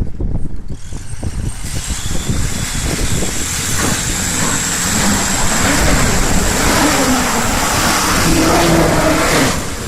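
Mitsubishi Pajero off-road engine revving hard under load, its pitch rising and falling, over a loud rushing noise that builds from about two seconds in. A few low thumps come before it.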